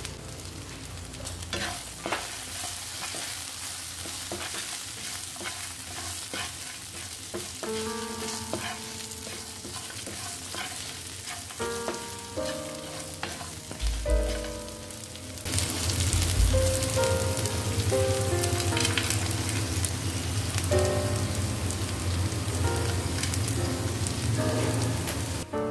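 Paneer cubes and green beans sizzling in oil in a non-stick frying pan. The sizzle gets louder about halfway through.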